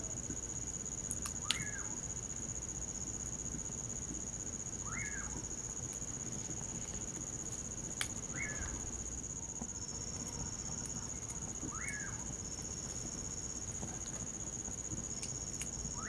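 Common pauraque (bacurau) calling: a short whistled call that rises and then falls, repeated five times about every three and a half seconds. Crickets keep up a steady high trill underneath, with a few sharp clicks.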